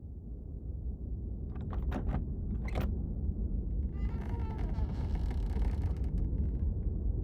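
A low, steady rumbling ambience that fades in at the start, with a few sharp clicks about two seconds in and a brief hiss with wavering tones around the middle.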